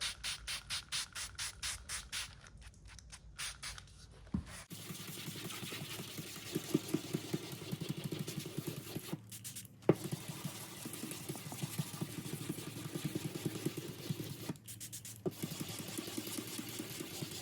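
Sanding block rubbed back and forth by hand over primer on an aluminium car panel, wet with a little washing-up liquid, at about four strokes a second. About five seconds in, the rubbing becomes denser and lower, with two short pauses and one sharp tick.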